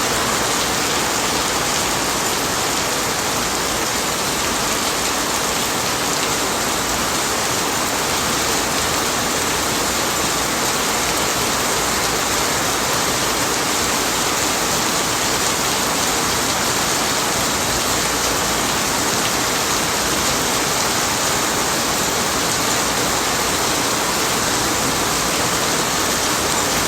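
Rain falling steadily, an even, unbroken hiss that holds the same level throughout.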